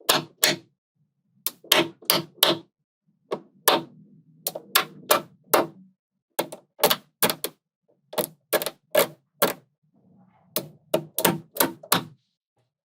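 Small magnetic balls snapping together as they are placed, making sharp clicks in irregular quick runs of two to five, with faint handling noise between them.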